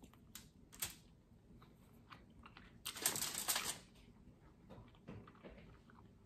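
Eating sounds: a person chewing, with scattered small clicks, and a louder burst of noise about three seconds in lasting under a second.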